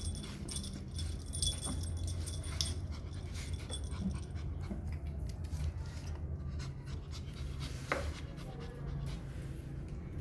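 Pomeranian puppy eating a snack: scattered small clicks and chewing noises, with a sharper click about eight seconds in, over a steady low hum.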